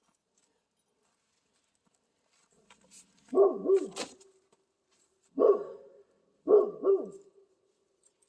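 A dog barking: five short barks in three groups (two, one, two), starting about three seconds in.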